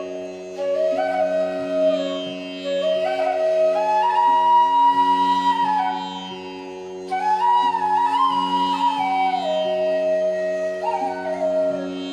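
Background instrumental music in an Indian classical style: a flute-like melody with sliding, ornamented notes over a steady drone.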